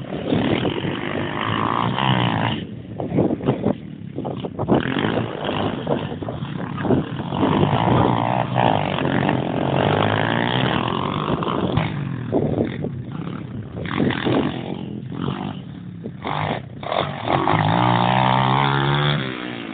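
Pit bike engine revving up and down as the bike is ridden, with the pitch rising and falling several times and a long high-revving stretch near the end.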